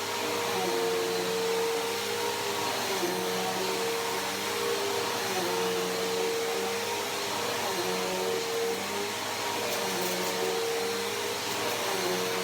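Bissell PowerForce Helix Turbo upright vacuum running steadily: an even rushing hiss with a motor hum whose pitch dips and recovers slightly every few seconds.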